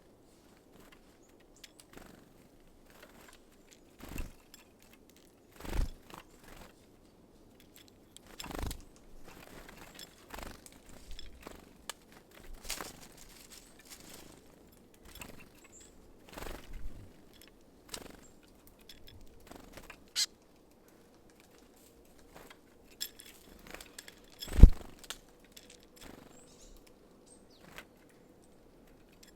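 Irregular taps and knocks of small birds at a feeder, the sort made as tits land and hammer open sunflower seeds, with the loudest knock about 25 seconds in.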